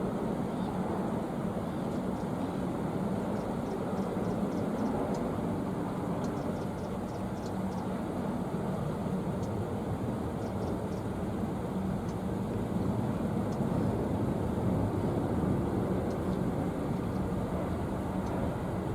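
Steady low rumbling noise with faint scattered ticks throughout.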